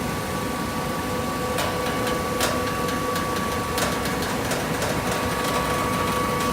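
Coconut fiber baler machine running: a steady mechanical hum with a held higher tone, and a few sharp clacks about one and a half, two and a half and four seconds in.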